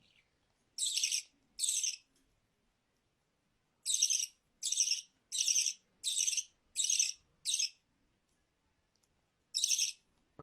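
A pet bird giving short, high, scratchy chirps, nine in all: two close together, then a run of six evenly spaced about one every 0.7 seconds, then one more near the end.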